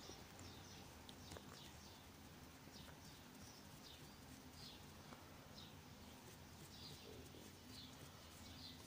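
Near silence: a low steady room hum with faint, short, high chirps about once a second, like a small bird calling.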